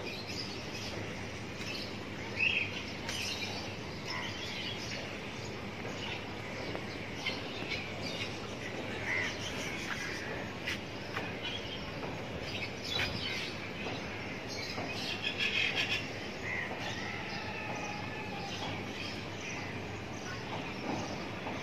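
Birds chirping on and off over a steady hiss of outdoor background noise, with a busier run of chirps a few seconds past the middle.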